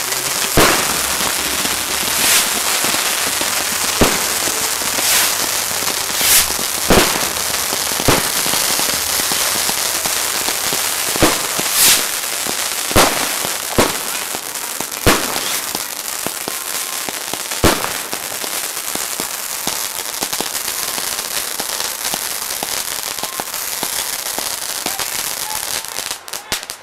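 Fireworks at close range: a steady hiss and crackle of fountains and comets, cut by sharp bangs every second or two. The bangs thin out in the second half, and the noise drops off suddenly near the end.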